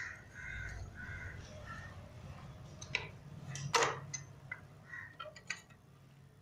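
Sharp metallic clicks and knocks of hand tools on a motorcycle engine's gearbox and crankcase during reassembly, the loudest a little under four seconds in. Short repeated calls sound in the background during the first two seconds.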